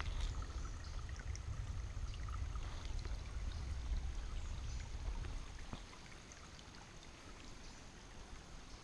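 Footsteps of a hiker walking on a trail, with a low, uneven rumble of wind on the microphone that eases a little more than halfway through.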